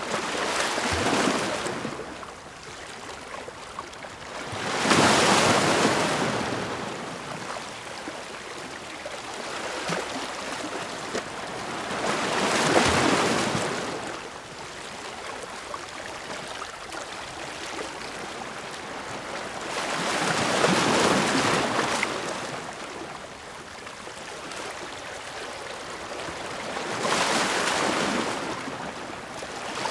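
Ocean waves crashing against rocks: a steady wash of surf that swells into about five big breaking surges, each building and receding over a few seconds.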